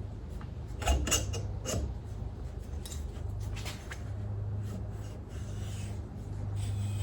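A fork seal driver being fitted over a motorcycle fork tube: rubbing and scraping with a few light clicks and knocks, clustered about a second in and again near four seconds.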